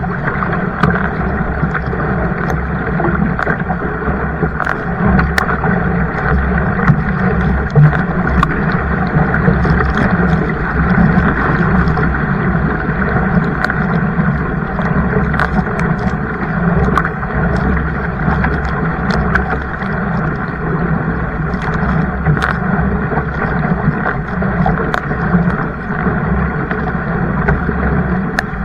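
Water rushing and splashing around a kayak, with scattered sharp splashes, and wind rumbling on the microphone.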